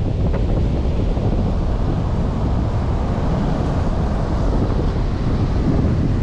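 Strong wind buffeting the microphone in a steady, heavy rumble, with the wash of surf beneath it.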